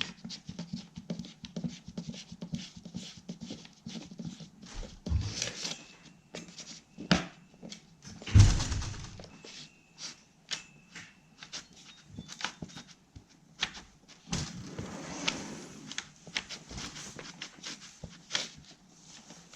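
Spatula scraping and tapping on a hard flat board, hand-mixing stiff two-part epoxy resin and hardener, in a dense run of irregular short scrapes and clicks. A heavy thump sounds about eight seconds in.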